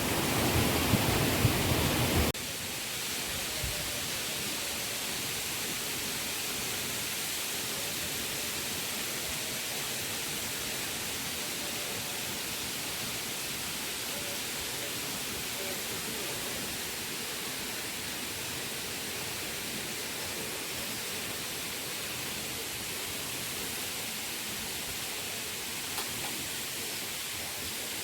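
Steady rush of falling water from a waterfall. For the first two seconds it is louder and deeper, then it changes abruptly to a steady, thinner hiss.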